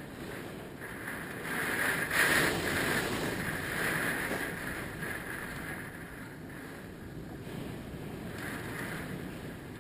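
Hurricane wind gusting hard and buffeting the microphone, swelling to its loudest about two seconds in and again around four seconds, then easing.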